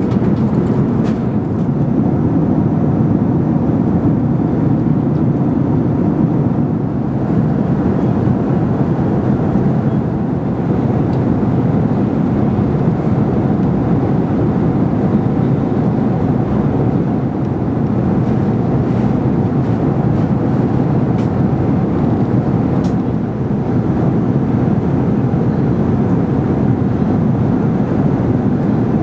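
Steady roar of an Airbus A380 cabin in flight: engine and airflow noise, even and unchanging, with a few faint clicks.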